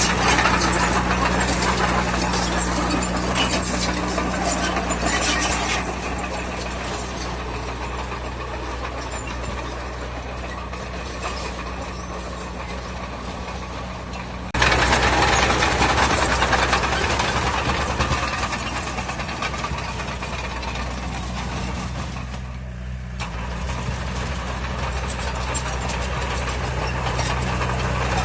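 A heavy diesel engine of earthmoving machinery runs steadily. Louder noisy stretches of machine work come in the first few seconds and again from a sudden jump in loudness about halfway through.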